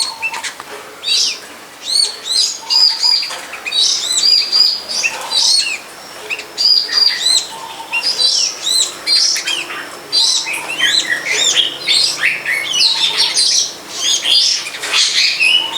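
Long-tailed shrike (cendet) singing a rapid, varied twittering song of short, high, arched chirps in quick phrases, with no break.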